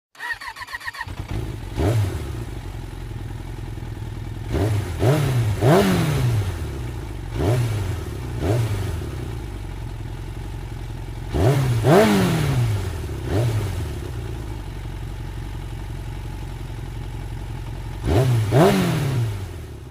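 Jawa Classic 300's single-cylinder engine idling through its twin exhausts, blipped about nine times, each rev rising and quickly dropping back to idle, some in quick pairs.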